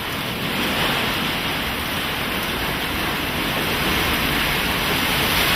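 Heavy rain and wind of a thunderstorm downburst, a steady rushing noise that grows slowly louder as the gust arrives.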